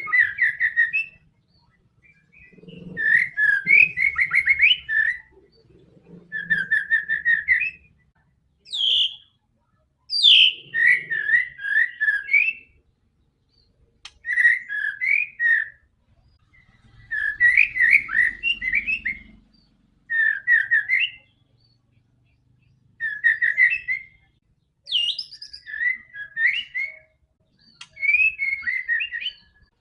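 White-rumped shama (murai batu) singing: about ten loud whistled phrases of rapid notes, each a second or two long and separated by short pauses, some opening with a quick upward sweep.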